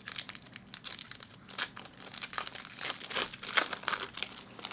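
Foil wrapper of a 2011-12 SP Authentic hockey card pack crinkling as it is torn open and handled, a dense run of crackles that is busiest in the middle and near the end.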